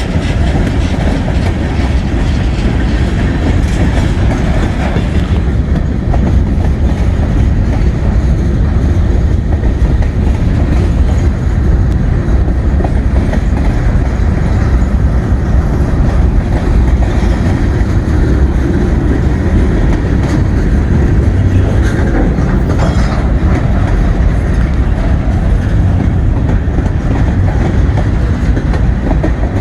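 Freight train cars rolling past close by, their wheels clacking steadily over the rail joints with a heavy rumble.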